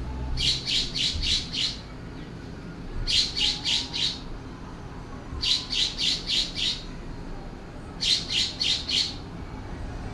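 California scrub jay calling: four runs of about five quick notes each, repeated every two to three seconds.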